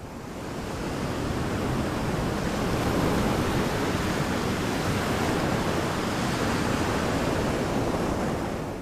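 Steady rush of ocean surf, swelling in over the first couple of seconds and fading out near the end.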